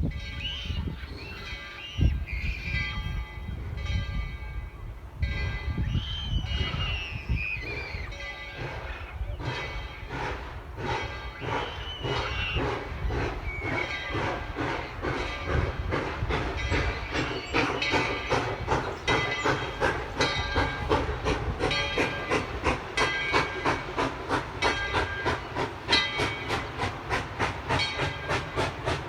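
Steam locomotive #12, a 1917 Baldwin 4-6-0 narrow-gauge engine, starting away. Its bell rings in steady strokes for the first few seconds. Then the exhaust chuffs begin slowly and quicken as the engine picks up speed, with steam hissing.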